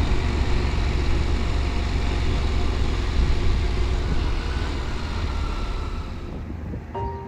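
Steady low engine rumble that fades out over the last couple of seconds, with music starting at the very end.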